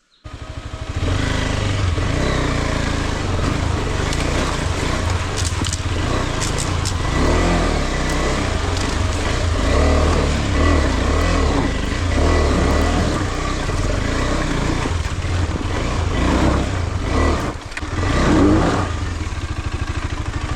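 Off-road motorcycle engine running under load on a rocky trail, the revs rising and falling as the rider works over the stones, with a few sharp knocks from the bike. The engine sound dips briefly near the end, then picks up again.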